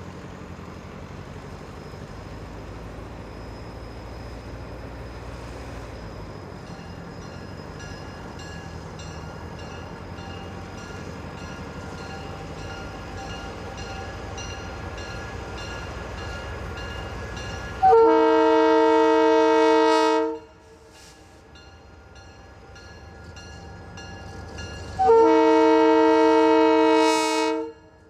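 Diesel freight locomotive approaching with a low engine rumble that slowly grows louder, then sounding its air horn in two long, steady blasts, the first about eighteen seconds in and the second about five seconds later.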